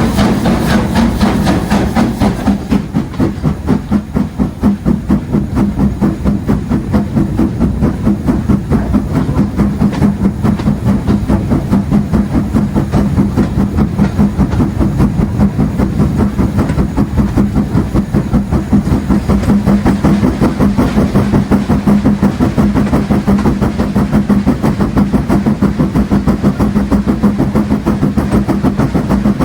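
LMS Stanier Class 8F 48305, a two-cylinder steam locomotive, working under steam: a rapid, even run of exhaust beats with running gear and rail noise, over a steady hum.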